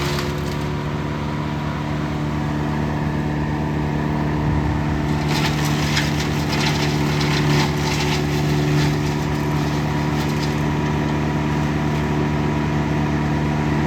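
Morbark wood chipper's engine running steadily under power, with a stretch of rapid crackling clatter from about five seconds in until about ten.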